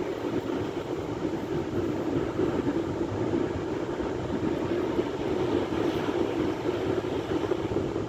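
Sea surf: waves washing in a steady, unbroken rush of noise, with no single breaker standing out.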